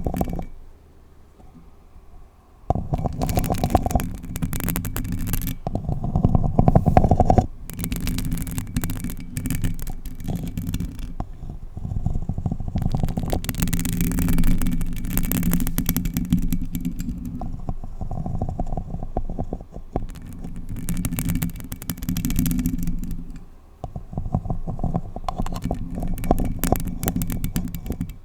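Long acrylic nails scratching a paper cup and the bare Blue Yeti microphone up close: a rough, rumbling scratch in long passes broken by a few short pauses.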